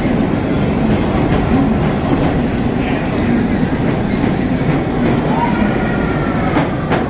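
New York City subway train running on the rails, a steady loud rumble with wheel clatter. Faint wheel squeal comes in during the second half, and a sharp click sounds just before the end.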